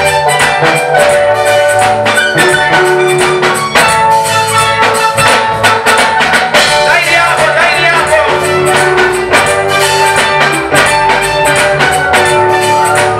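Praise and worship music from a church band: a steady beat of drums and percussion under held instrument notes.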